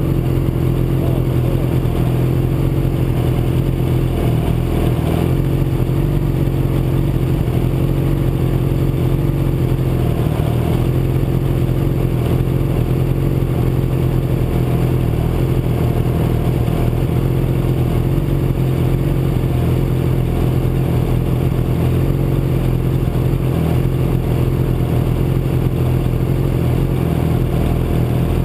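Sport motorcycle inline-four engine idling steadily at a constant pitch, with no revving.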